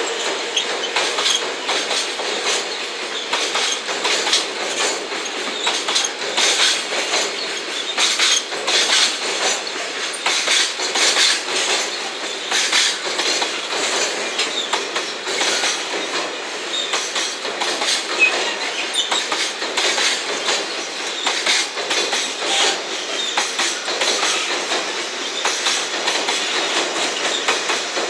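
Container freight train rolling past, its flatcar wheels clicking steadily over the rail joints in a rapid, continuous clickety-clack.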